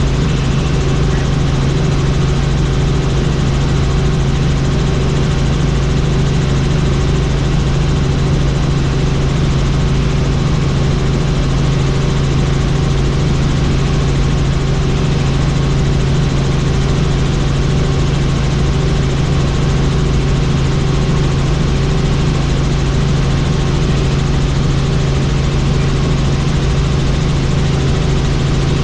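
Helicopter in flight: a loud, steady drone of rotor and turbine with a strong low hum and a faint rapid pulsing.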